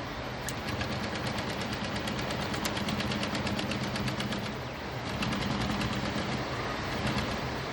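Juki DU-1181N industrial walking-foot sewing machine stitching at speed in two runs with a short pause between them, the needle strokes a rapid even clatter over the motor's hum.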